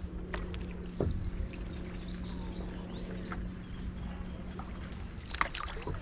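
Small birds chirping over a steady low hum and rumble on a stand-up paddleboard moving along a canal. There is a knock about a second in and a few sharp clicks near the end.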